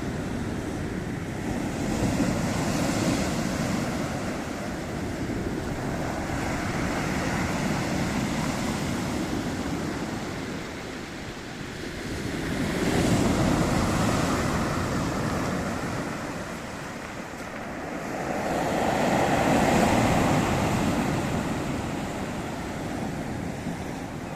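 Black Sea surf: a continuous wash of waves that swells and eases in slow surges several seconds apart.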